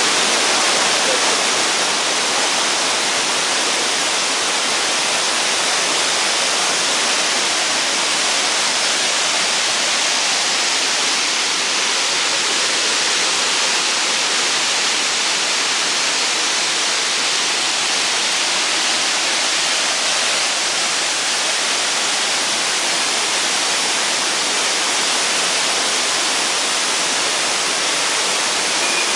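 Waterfall pouring steadily, a constant loud rush of falling water.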